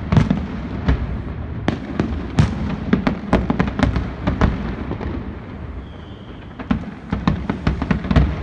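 Fireworks display: a rapid, irregular run of sharp bangs and cracks, easing off briefly past the middle, where a faint whistle sounds, then picking up again near the end.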